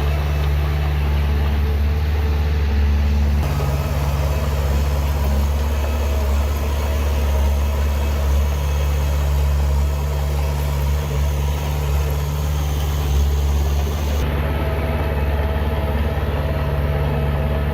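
Heavy diesel engine of earth-moving machinery running steadily with a deep, even drone. The sound changes abruptly twice, about three and a half seconds in and again near fourteen seconds.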